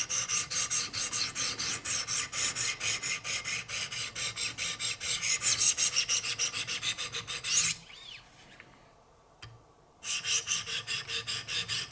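400-grit diamond plates of a Wicked Edge guided sharpener rasping along the edge of a Benchmade Altitude's S90V steel blade in quick strokes, about five a second. The strokes stop for about two seconds, broken by one faint click, then start again. The rasp is the sound of a harder steel.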